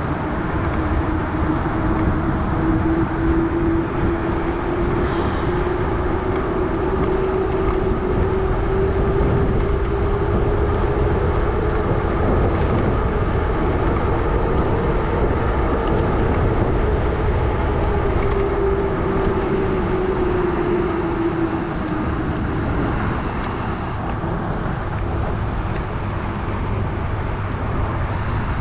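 Loud hum of the 650b tyres on a Salsa Journeyman gravel bicycle rolling along the trail: a single humming tone that slowly rises in pitch and falls again, fading out about three-quarters of the way through, over a steady low rumble.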